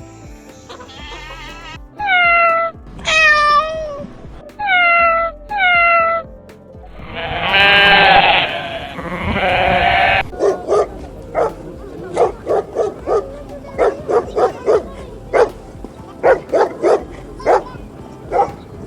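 Goats bleating: four short wavering bleats that fall in pitch, then a longer bleat. From about ten seconds in, a dog barks in a quick series of short barks.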